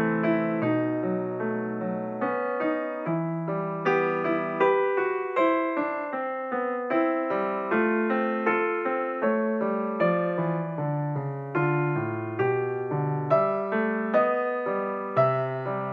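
Background piano music with an electric piano sound: a steady stream of notes.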